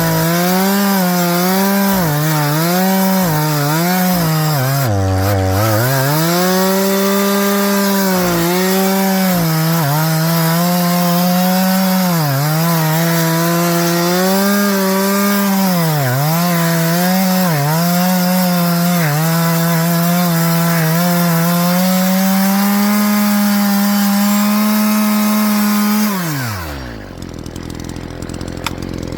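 Echo two-stroke chainsaw running at full throttle while cutting wood, its pitch repeatedly dipping under load and recovering. About 26 seconds in, the revs fall away sharply and the saw settles to idle.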